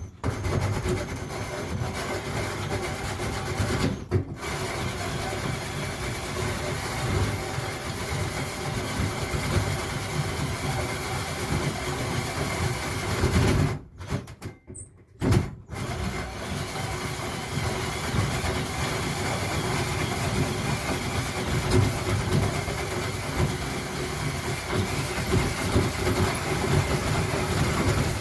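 Power drill running under load as it cuts a hole through the roof for a stove pipe. It pauses briefly about four seconds in and again for a couple of seconds about halfway through, then carries on.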